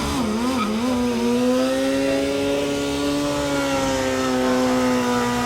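Sportbike engine revving in a few quick blips, then held at a steady high-pitched drone.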